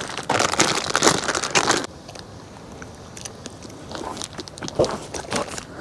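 Plastic poultry shrink bag crinkling and crackling as a plucked rooster carcass is worked into it, a dense burst for the first couple of seconds, then scattered softer crackles.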